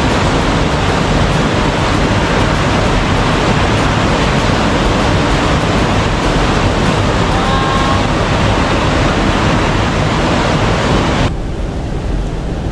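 Waterfall rushing: a loud, steady rush of falling water. About eleven seconds in it abruptly turns quieter and duller.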